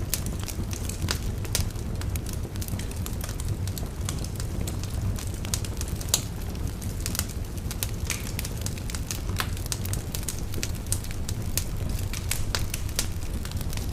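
Wood fire burning in a fireplace: frequent sharp crackles and pops over a steady low rumble of the flames, with one louder pop about six seconds in.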